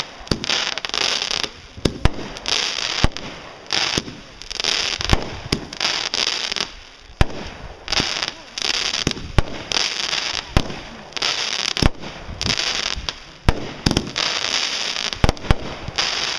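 Aerial fireworks firing in a rapid series, about one shot a second: each sharp bang is followed by a short burst of hissing crackle.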